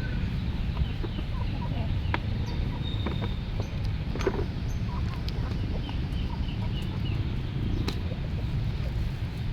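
Birds giving short, repeated chirps and calls, with a few clicks, over a steady low rumble.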